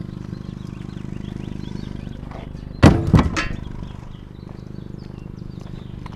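A loud clattering thunk about three seconds in, something hard being set down or dropped, over a steady low hum.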